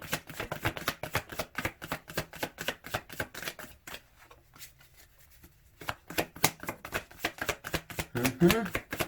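Tarot cards being shuffled by hand: rapid, dense papery flicks and slaps of the deck. They pause for about two seconds midway, then start again.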